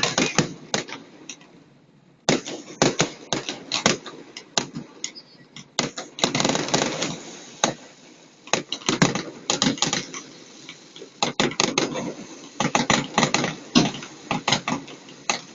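Fireworks going off: a rapid, irregular string of sharp bangs and crackles. There is a short lull about two seconds in, and the bangs come thickest around the middle and again near the end.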